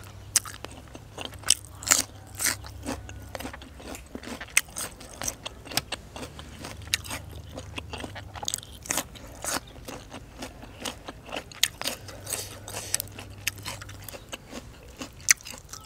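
Close-up eating sounds of biting and chewing a crisp raw vegetable: a steady run of irregular sharp crunches and smaller wet clicks.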